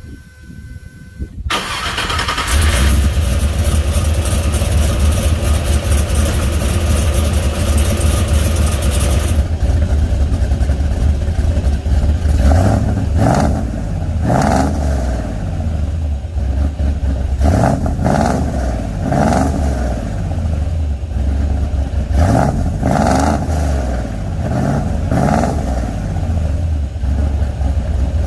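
Truck engine starting about two seconds in, then idling with a deep, throaty exhaust note through a new pair of Summit Racing turbo mufflers, cutouts closed. From about halfway on it is revved in a series of short throttle blips.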